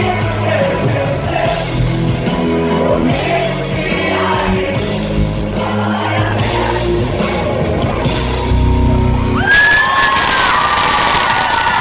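Live pop band playing through a loud outdoor PA, with singing. About nine and a half seconds in, the crowd breaks into cheering and whooping over the music.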